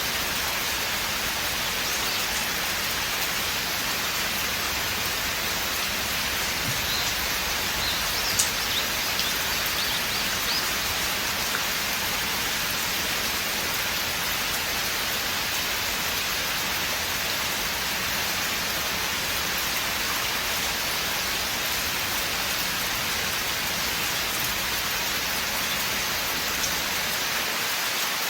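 Steady rain falling on a forest, an even hiss of many drops with a few sharper single drop ticks about a third of the way in.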